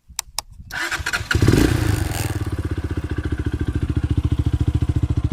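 Euro Flash R150 motorcycle's carbureted, air-cooled 150cc engine being started: a few brief cranking clicks, then it catches about a second and a half in and settles into a steady, evenly pulsing idle.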